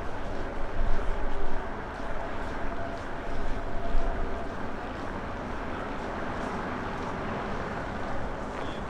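Blizzard wind buffeting a microphone whose windshield is not keeping it out, a dense low rumble with louder gusts about one and four seconds in, steadier after that.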